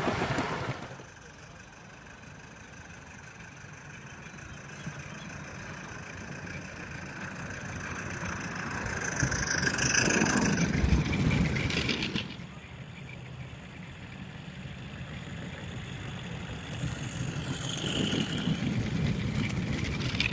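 A garden-railway model locomotive running on the track, with a low rumble that grows louder as it comes closer and peaks about halfway. The sound then drops suddenly and builds again. Brief high-pitched squeals come twice, near each peak.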